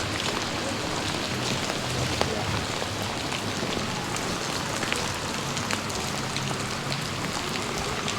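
Heavy rain falling steadily, with many sharp drop strikes close to the microphone and a faint low hum underneath.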